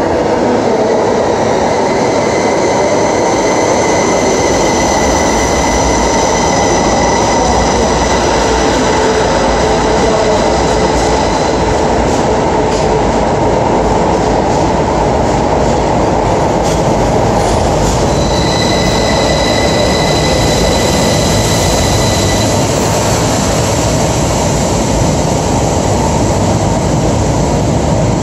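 Electric passenger train coming through the tunnel and running into an underground station platform, slowing: a loud steady rumble with high squealing tones from the wheels and brakes, and a run of sharp rail clicks as the cars pass in the middle.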